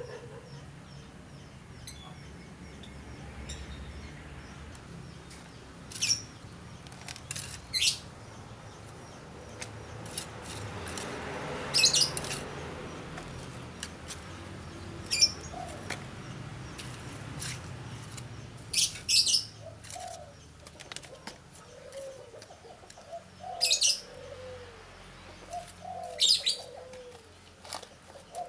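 Birds chirping outdoors: short, bright chirps come in clusters every few seconds. From about two-thirds of the way in, lower, repeated curving calls join them.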